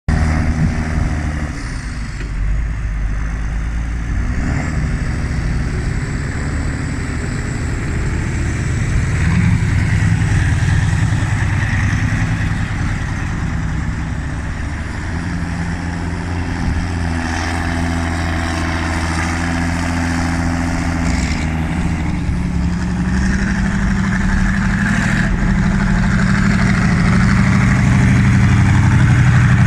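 Straight-piped Massey Ferguson tractor engines working while rolling silage: the 1155's V8 and the 6290's turbocharged six-cylinder. The loud, deep exhaust note rises and falls as the tractors work, growing louder toward the end.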